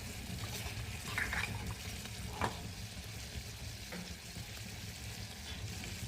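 Chicken sizzling in a pan while the rum poured over it burns. A few light knocks from stirring come about a second and two seconds in.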